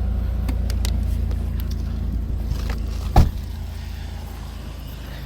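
2000 Chrysler Grand Voyager minivan idling steadily just after a cold start, its heater running on the ice. A few light clicks come in the first second, and a single sharp thump comes about three seconds in, after which it is a little quieter.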